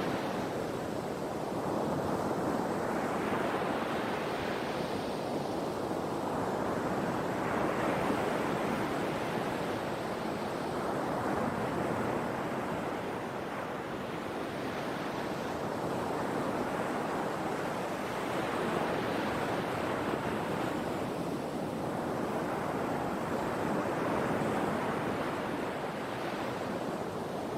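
Sea waves breaking and washing on the shore, a continuous rush of surf that swells and eases every few seconds.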